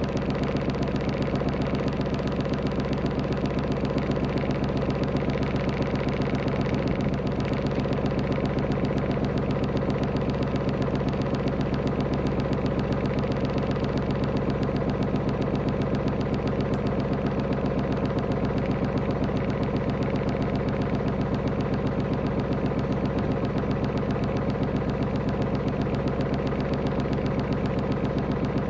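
Small yacht's engine running steadily at constant speed, an even, unchanging mechanical note with no change in revs.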